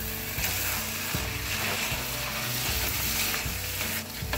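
Bhaji vegetables (onion, carrot, tomato, mashed potato and peas) sizzling in oil in a pot. A spatula stirs and scrapes through the mixture, giving a few knocks against the pot.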